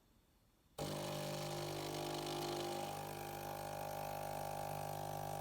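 Saeco Xelsis SM7683/10 automatic espresso machine starting up suddenly about a second in and running with a loud, steady humming drone while it makes a ristretto.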